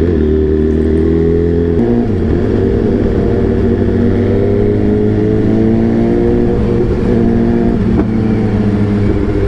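Superbike engine under way: its note drops suddenly about two seconds in, as on a gear change, then climbs steadily as the bike accelerates.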